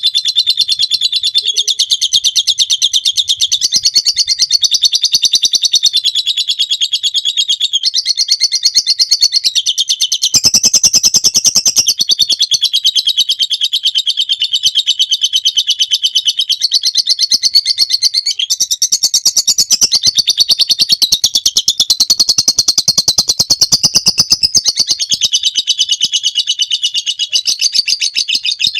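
Lovebird singing a long, unbroken 'ngekek': a very rapid, high-pitched chattering trill of chirps that runs on without a pause, shifting slightly in pitch now and then.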